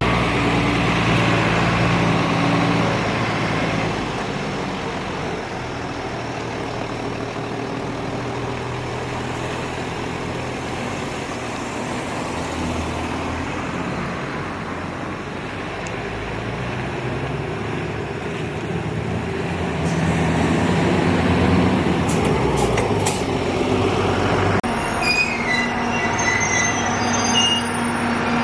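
Train running on rails, with a steady running noise and a pitched drone that falls and then rises again about twenty seconds in; brief high wheel squeals come near the end.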